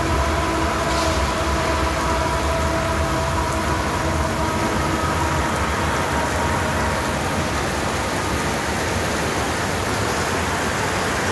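Steady hiss of heavy rain, with a train passing in the background: a low rumble and a few steady high tones that fade away over the first half.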